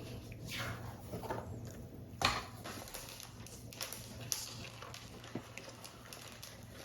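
Paper model parts being handled on a work surface: irregular paper rustles and light taps, with one sharper tap about two seconds in.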